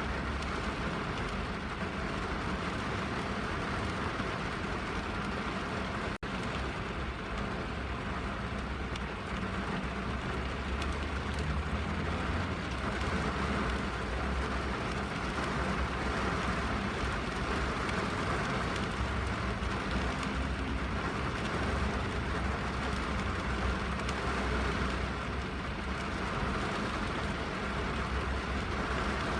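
Steady rain falling on a car's roof and windows, heard from inside the cabin as an even hiss over a deep low rumble. There is a momentary dropout about six seconds in.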